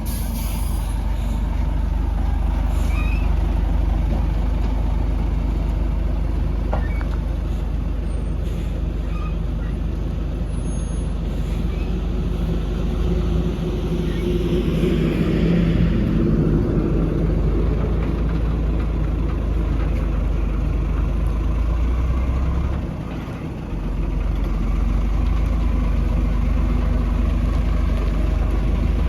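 Heavy diesel earthmoving machinery, an excavator and dump trucks, running steadily with a low engine rumble. The engine noise swells around halfway through and drops briefly a few seconds before the end.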